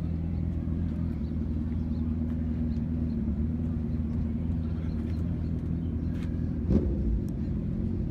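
Car engine idling steadily with a low rumble, with one brief thump about seven seconds in.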